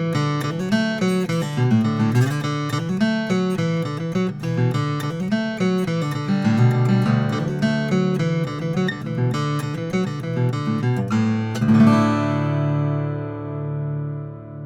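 Martin 00-15M all-mahogany acoustic guitar played solo: a run of quickly changing picked notes, ending with a final chord struck about twelve seconds in and left to ring and fade.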